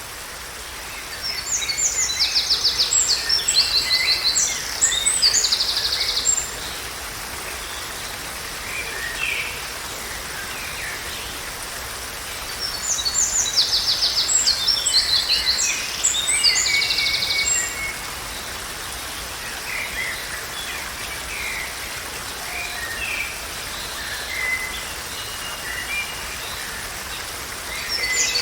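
A songbird singing: two long bouts of bright, rapid trilled phrases, one starting about a second in and another about twelve seconds in, with fainter scattered chirps between, over a steady background hiss.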